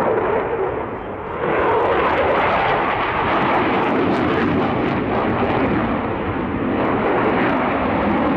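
Twin jet engines of a Swiss Air Force F/A-18 Hornet in flight: a steady, loud rushing jet noise that dips briefly about a second in.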